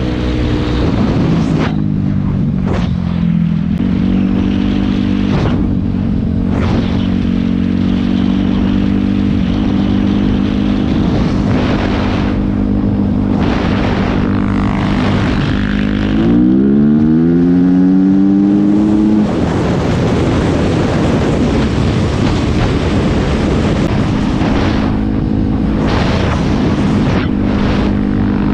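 Dirt bike engine running steadily while riding, with wind noise over it. About two-thirds of the way through the engine revs up, then the engine note is buried under louder noise for a few seconds.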